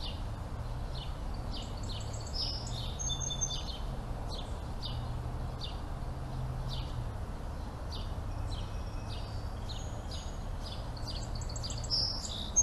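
Small birds chirping, short high calls repeating about once or twice a second with a few brief whistles, over a steady low rumble.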